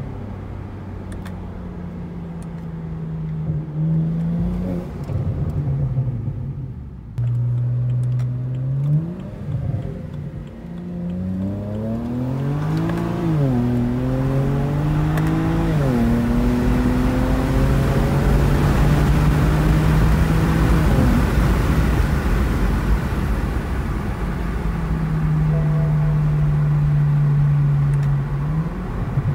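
BMW N54 twin-turbo inline-six accelerating through the gears, heard from inside the cabin. The engine note climbs and drops at each gear change, then holds steady at cruise under rising road noise.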